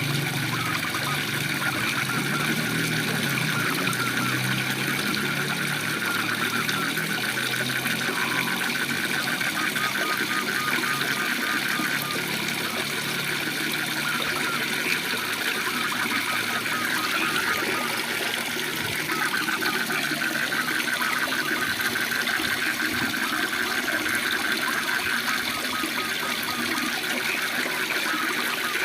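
Waterfall rushing steadily, with frogs calling in a rapid pulsing trill that pauses midway and then resumes. A low rumble in the first few seconds fades away.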